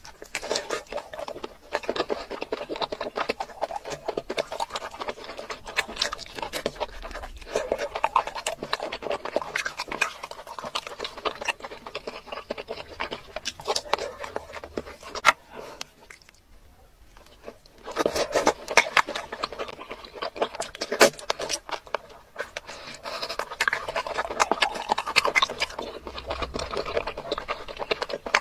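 Close-miked wet chewing and lip-smacking of a person eating saucy seafood boil (lobster meat and squid), a dense run of small sticky clicks that stops briefly a little past halfway, then starts again.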